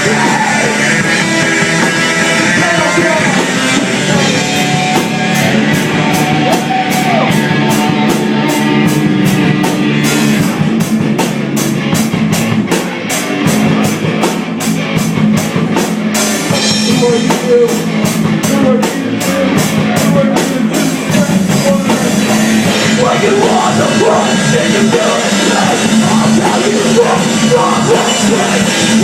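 Live rock band playing a heavy, punk-edged song with drums, bass and guitars. Through the middle stretch the drums keep a fast, even beat of about four hits a second.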